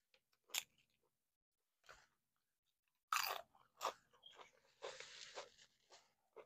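A person biting and chewing a mouthful of taco salad: a few separate crunches early on, loud crunching about three seconds in, then a denser stretch of chewing about five seconds in.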